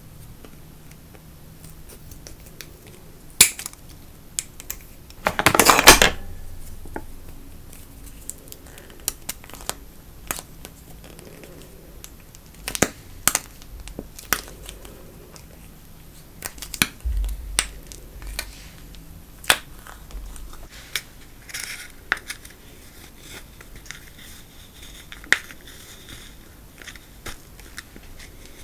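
Slime being handled and mixed by hand, giving scattered sharp clicks and crackles, with a longer crackling burst about five and a half seconds in.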